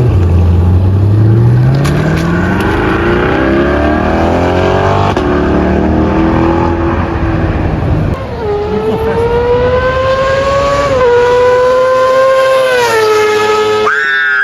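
A high-performance car accelerating hard, its engine revs climbing steeply for several seconds. The engine then settles into a steadier drone that shifts pitch in small steps.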